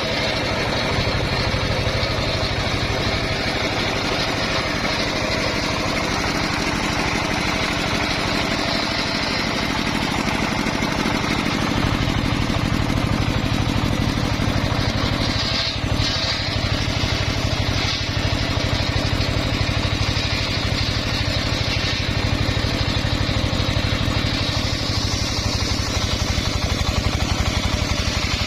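Engine of a homemade circular saw rig running steadily, its low hum shifting about 12 seconds in.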